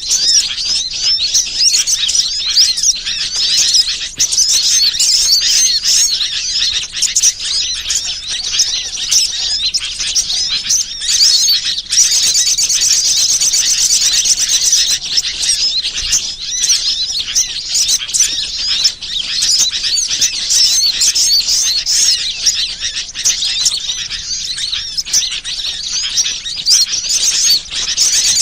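Many birds chirping and twittering at once in a dense, unbroken high-pitched chorus: a bird-lure recording made to draw birds in.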